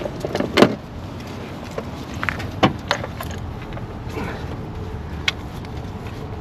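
A few sharp clicks and light metal knocks of hand tools and parts being handled while new spark plugs are started into the engine, over a steady low background hum.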